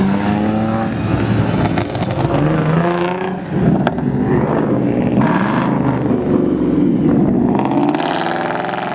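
Loud car engine revving and accelerating as a car pulls out of a car meet, its pitch climbing and dropping through the revs, with a harsher, hissy rush of noise near the end.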